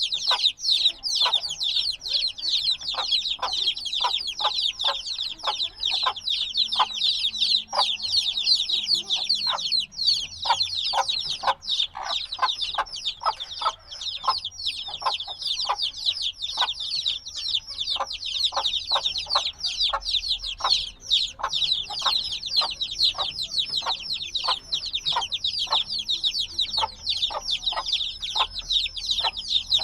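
A brood of newly hatched chicks peeping continuously, many high, quick chirps overlapping without pause.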